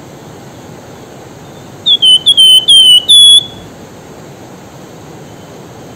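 Javan fulvetta (wergan jawa) calling a short, loud phrase of about six clear whistled notes, each dipping slightly in pitch, the last one higher and held, a call meant to draw a bird of the opposite sex. Steady rushing river water underneath.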